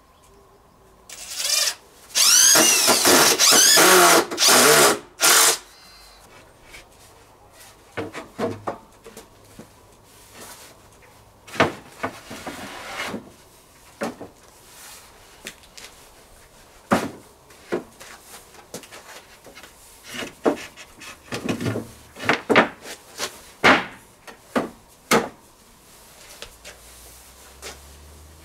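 Power drill running in several bursts over a few seconds, its pitch rising and falling as the trigger is worked, followed by scattered knocks and taps.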